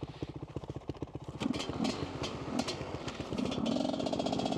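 Dirt bike engine running with fast, even firing pulses, then revving louder about a second and a half in, with sharp clattering clicks over the engine note.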